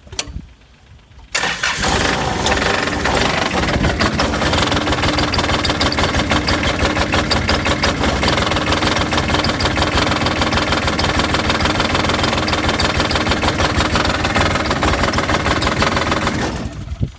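Yanmar diesel engine of a John Deere F935 mower, coming in suddenly about a second in and running rough: chugging, with a fuel knock. It goes quiet near the end. The owner suspects injectors squirting a straight stream of fuel instead of atomizing it.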